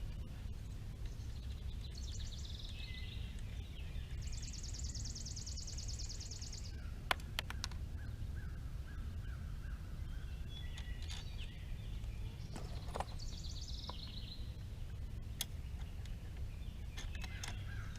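Outdoor ambience of songbirds calling: a falling call about two seconds in, a fast high trill for a few seconds after that, and another falling call later on, over a steady low background rumble. A few sharp clicks and taps of handlebar parts being fitted to the scooter stem are heard now and then.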